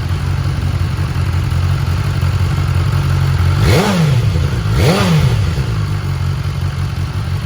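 2020 BMW S1000R's inline-four engine idling through its stock exhaust, blipped twice a little past the middle, the revs rising and dropping straight back to idle each time.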